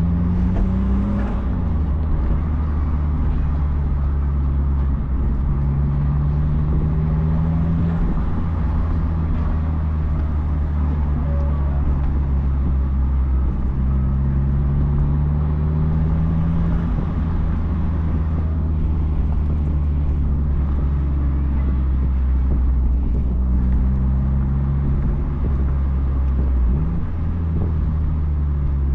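2004 Mazdaspeed Miata's turbocharged 1.8-litre four-cylinder engine and aftermarket cat-back exhaust running under way, the engine note rising and falling gently several times, over steady road and wind noise.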